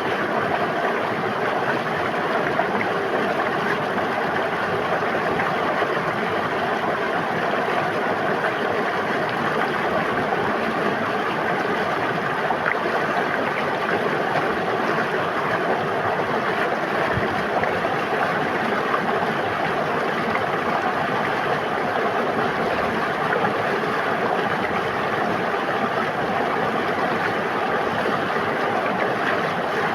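A river running steadily: a constant rush of flowing water with no changes or breaks.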